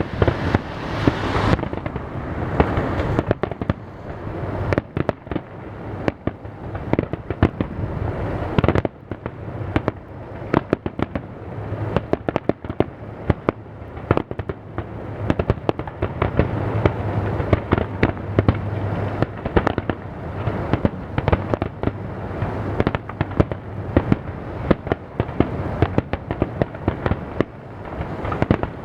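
Fireworks display: aerial shells bursting in quick, irregular succession, several sharp bangs a second over a steady low rumble of overlapping reports.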